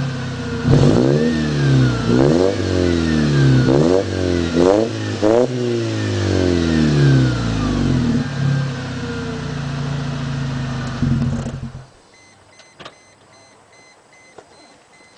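Supercharged four-cylinder engine of a 2003 Mercedes C230 Kompressor through a MagnaFlow exhaust, blipped through several quick revs that rise and fall, with a whine following the revs, then running steadily before stopping abruptly about twelve seconds in. A repeating electronic beep and a few light clicks follow.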